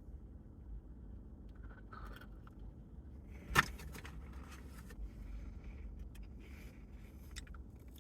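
Close-up eating and handling noises of a person eating a burger: one sharp knock about three and a half seconds in, then faint crackles and clicks.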